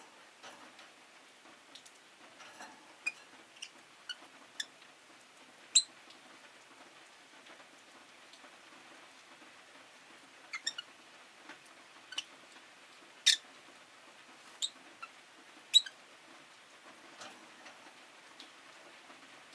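Rosy-faced lovebirds giving short, sharp chirps at irregular intervals, a few of them much louder, over a faint steady hum.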